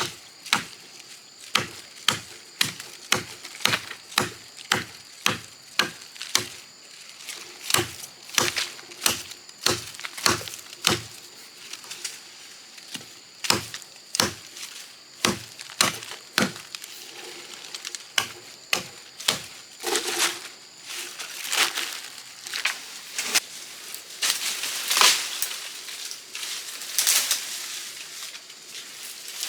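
Blade chopping into wood by hand: quick, sharp blows about two a second for the first ten seconds, then slower, uneven strokes with some crackling of wood in the second half.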